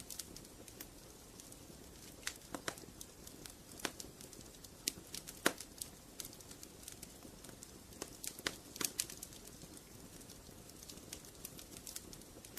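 Fire crackling in a fireplace: irregular sharp pops and snaps over a soft, steady low hiss. The loudest pop comes about five and a half seconds in.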